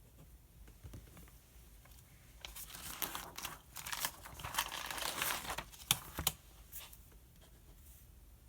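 Paper pages of a study book being turned, rustling and crinkling for about three seconds, followed by two sharp taps.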